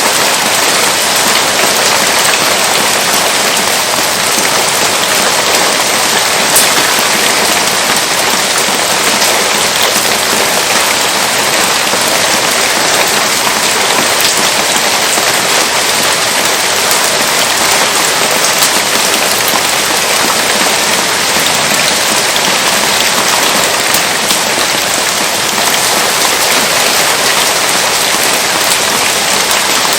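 Heavy rain falling steadily: a loud, even hiss of dense drops, with a few sharper ticks now and then.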